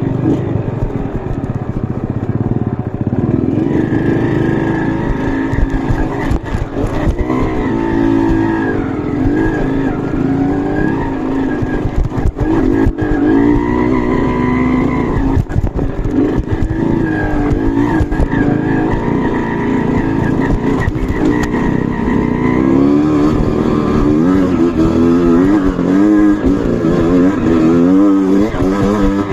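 Off-road trail motorcycle engines running under load, the revs rising and falling unevenly, with scattered knocks and rattles.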